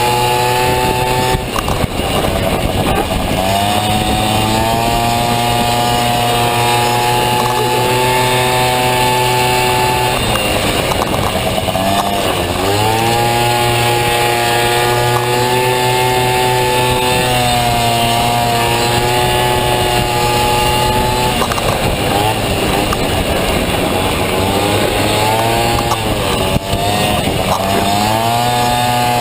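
Honda Dio two-stroke scooter engine in a Honda Motocompo running hard under racing throttle, its pitch held steady by the automatic belt drive. It drops off about four times as the throttle is eased and rises again each time it is opened back up.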